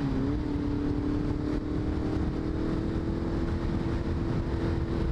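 Motorcycle engine cruising with a steady drone, its pitch dipping briefly right at the start and then holding level, with wind rush over the microphone.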